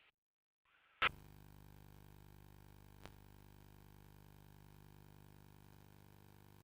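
A quiet steady hum with many evenly spaced tones, starting with a sharp click about a second in; a small click about three seconds in, and the hum cuts off abruptly at the end.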